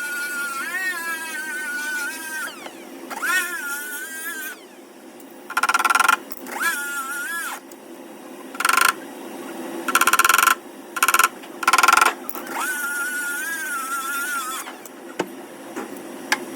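Power tool working the sheet metal of a car's quarter panel. Its whine rises and falls in pitch as the load changes, broken by several short, harsh bursts about halfway through.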